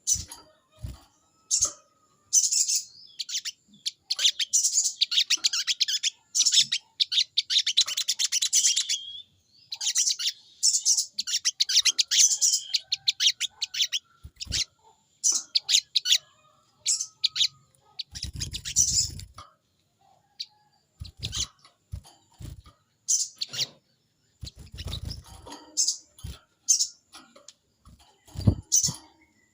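Sogon bird calling in rapid, dense chattering runs, then in shorter scattered calls, in the agitated 'fighter' calling that keepers show off. A few dull low knocks come in the second half.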